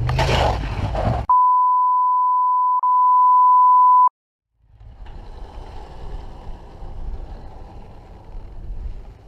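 A steady, pure beep tone lasting about three seconds, with a brief break partway through, that cuts off suddenly. It is a bleep added in the edit. Before it, for about a second, there is road and vehicle noise. After a short gap of silence comes faint outdoor noise with wind on the microphone.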